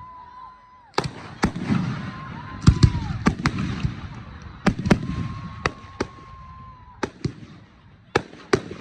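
Aerial fireworks shells bursting in quick succession, a string of sharp bangs one after another over a crackling haze, with a held whistling tone coming and going between them.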